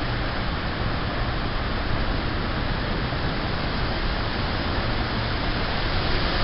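Strong downslope wind blowing at 60+ mph, a steady rushing noise with no let-up.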